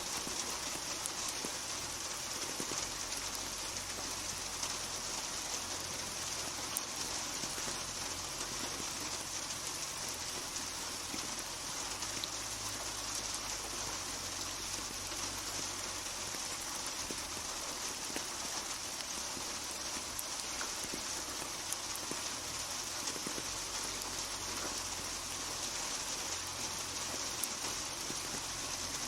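Steady rain falling, a continuous hiss with scattered individual drops ticking on hard surfaces.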